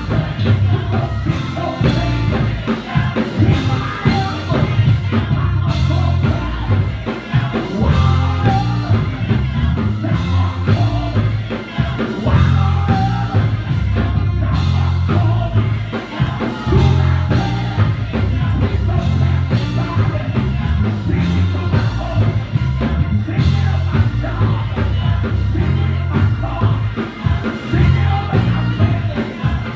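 Worship music: singing over a band with a drum kit and a heavy, pulsing bass line.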